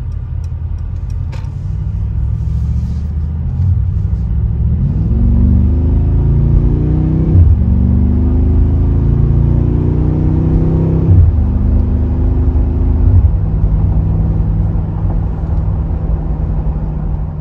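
Mercedes-AMG G63's twin-turbo V8 under hard acceleration, heard from inside the cabin. The engine note climbs and falls sharply at three upshifts, about seven, eleven and thirteen seconds in, then settles into a steady exhaust drone.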